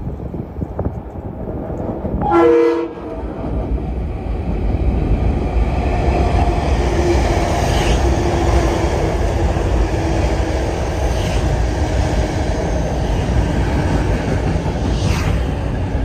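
Metro-North commuter train sounds one short horn blast about two seconds in, then rumbles steadily past close by on the elevated track, with an occasional clank from the wheels.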